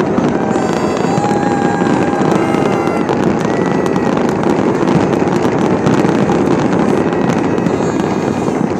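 Aerial fireworks display in full barrage: a continuous dense crackling of many small bursts running together, with no pause.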